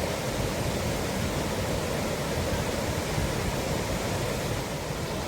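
Steady rushing sound of water, an even noise with no distinct events.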